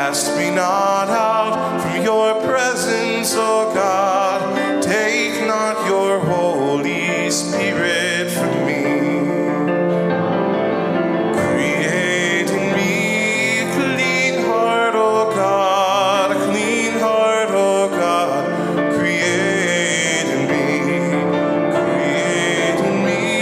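Church music: singing with instrumental accompaniment, the voice held in long notes with a wavering vibrato over sustained chords.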